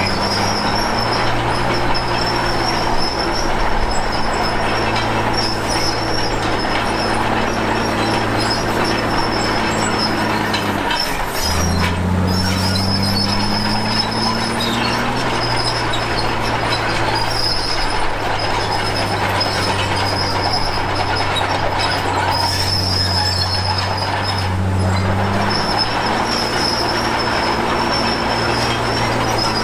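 Komatsu D53P bulldozer's diesel engine running under load, with a steady high squeal from its steel crawler tracks. About eleven seconds in the engine note dips sharply, then climbs back up over the next few seconds.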